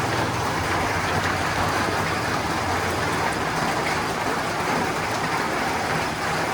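Steady rain on a tin roof: a dense, even patter of drops with faint individual ticks, over a low steady rumble.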